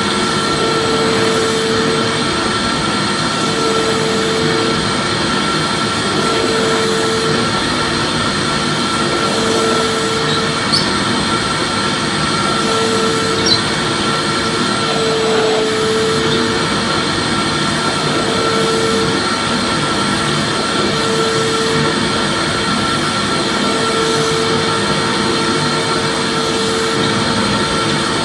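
Vacuum cleaner motor running steadily with a constant airy roar, used as soothing white noise for a baby. A soft tone recurs about every three seconds.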